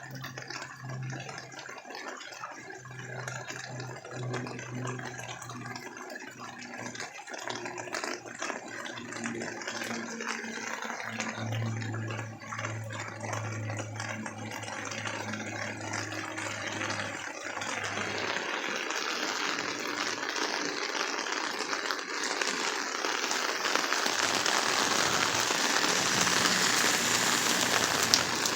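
Heavy rain falling, a steady hiss dense with pattering drops, that grows louder over the second half. A low hum runs underneath for the first part and fades out about two-thirds of the way through.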